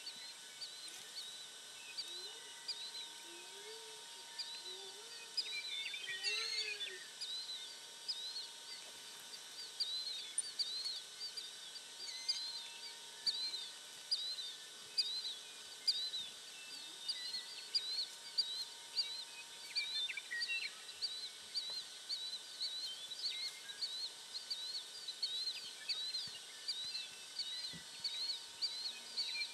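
Small birds chirping over and over, short high chirps a few times a second, against a steady rural background; a few faint low calls come in the first several seconds.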